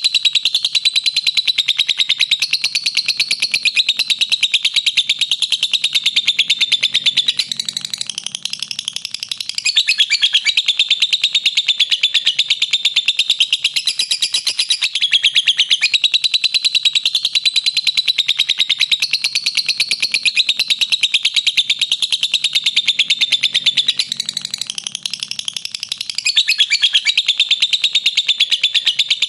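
Lovebird giving its long, rapid, high-pitched chattering trill (the 'ngekek'), an almost unbroken stream of fast notes that thins briefly twice.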